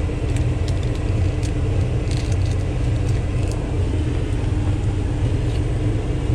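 Truck engine running with a steady low rumble and a faint steady hum, with a few light clicks over it.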